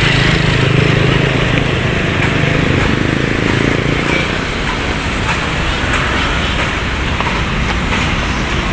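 Steady road traffic: vehicles passing, with a low engine hum strongest in the first two seconds or so.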